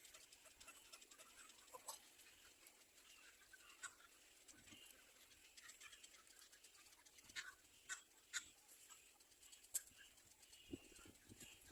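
Faint, scattered short chirps and clicks from small birds at a nest, with a few sharper ones standing out at intervals.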